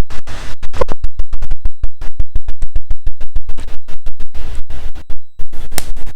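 Close-miked chewing of crunchy chocolate snacks: a dense run of sharp crunching clicks, several a second, with a short pause about five seconds in. The sound is loud and harsh, from a badly connected microphone.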